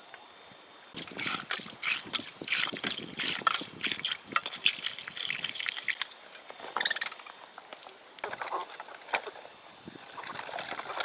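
Water splashing and trickling in irregular spurts, busiest in the first half and quieter in the middle.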